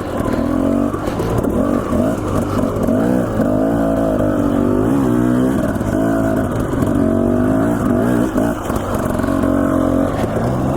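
Dirt bike engine running under load, its pitch rising and falling again and again as the throttle is opened and closed over the trail.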